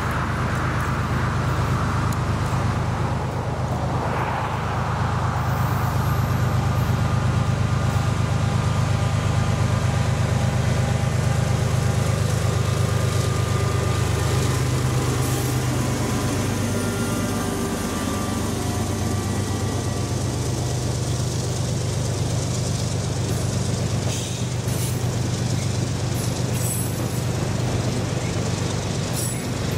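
CSX GE diesel locomotives, an ES40DC leading, working past at track speed: a steady low engine drone that drops in pitch as the units go by a little past halfway. After that the autorack cars roll by, with scattered sharp wheel-on-rail clicks.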